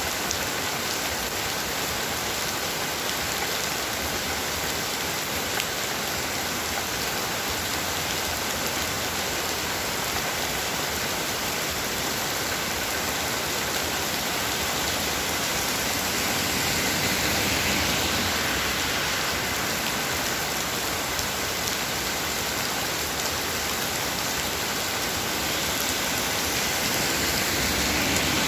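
Heavy rain falling steadily: a dense, even hiss of downpour that swells a little louder twice, about two-thirds of the way in and near the end.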